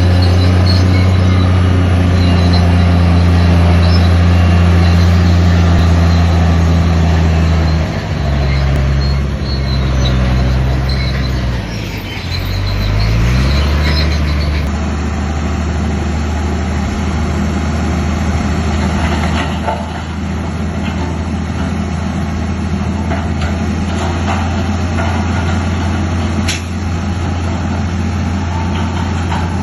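Heavy diesel engine of earthmoving machinery running loudly. Its pitch drops about eight seconds in and climbs back up around twelve to thirteen seconds. After an abrupt change in the sound about fifteen seconds in, it runs on steadily.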